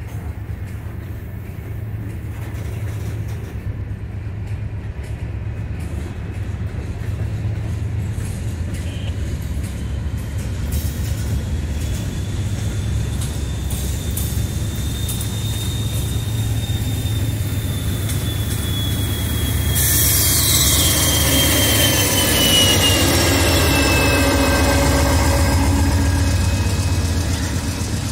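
Norfolk Southern freight train of covered hopper cars rolling past, a steady rumble of steel wheels on rail with a high-pitched wheel squeal that rises and falls. About twenty seconds in the sound grows louder as diesel locomotives draw close on the next track.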